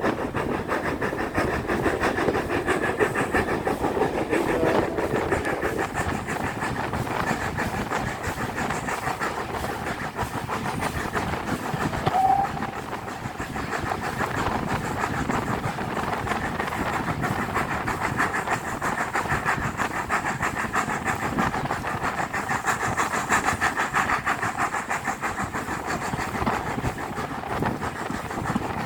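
Steam-hauled passenger train on the move behind an LMS 4F locomotive: a steady running rumble with rhythmic wheel clatter on the rails. A short high note sounds about twelve seconds in.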